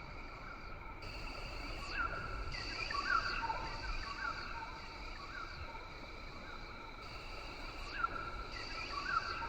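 Rainforest ambience: a steady, layered insect drone with short rising chirps repeating every second or so over it.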